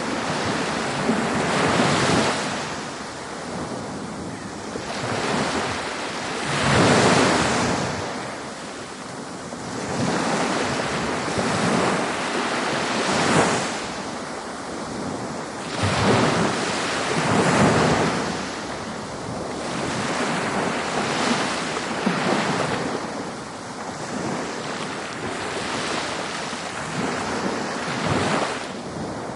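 Ocean waves breaking on a beach, a steady wash of surf that swells and breaks again every few seconds, with the biggest breakers about 7 and 17 seconds in.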